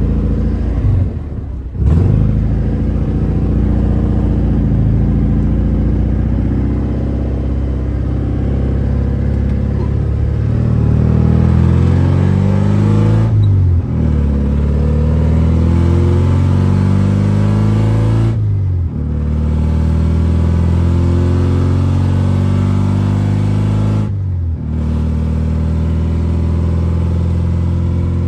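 Widebody BMW E36's engine pulling through the gears: its pitch climbs in each gear and drops at four brief upshift pauses.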